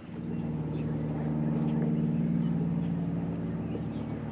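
Boat motor coming on at the start and running steadily with a low, even drone.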